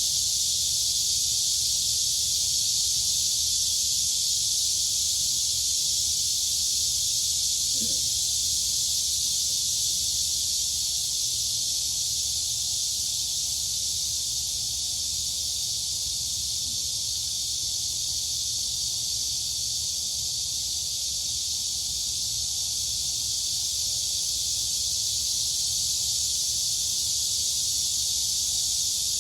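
Chorus of crickets and cicadas: a dense, steady, high-pitched buzzing drone with no breaks, over a faint low rumble.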